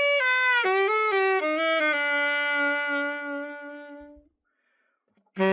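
Nova Sax AX-502 alto saxophone being test-played after its setup: a slow falling phrase ending on a long held low note that fades out about four seconds in, then a short silence before the next phrase starts near the end.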